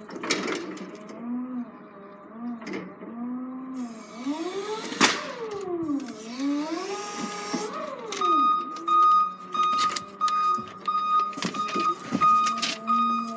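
A machine's motor whine sweeping up and down in pitch, with a sharp knock about five seconds in, then from about eight seconds a reversing alarm beeping steadily, about twice a second.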